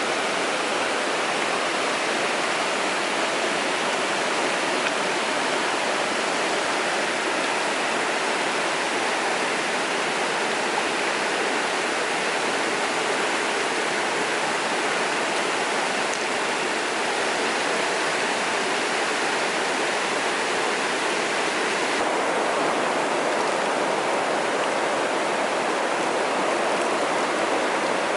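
Mountain stream water rushing and splashing over rocks in a steady, continuous wash, its tone shifting slightly about three quarters of the way through.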